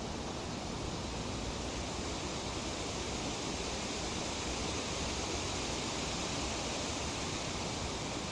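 Wind rustling through tree leaves: a steady, even hiss that swells a little in the middle.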